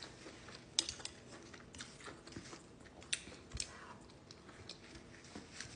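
A person chewing spicy garlic green beans close to the microphone: irregular crisp mouth clicks and crunches, about one or two a second.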